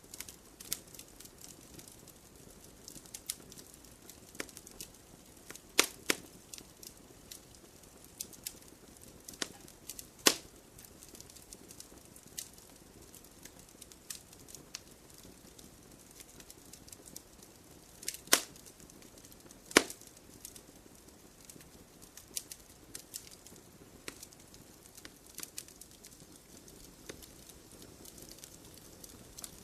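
Wood campfire crackling: irregular sharp pops and snaps over a faint low hiss of burning, with a few louder pops scattered through.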